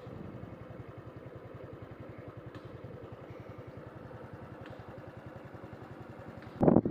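An engine idling with an even, rapid throb, starting abruptly. A loud rush of wind on the microphone comes near the end.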